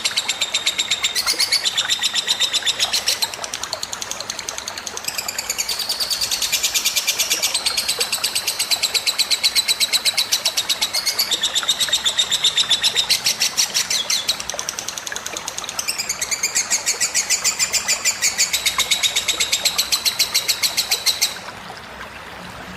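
Songbird recording: a fast, continuous trilling chatter of rapid repeated high notes, shifting pattern every few seconds, that cuts off abruptly near the end, leaving a soft trickle of water.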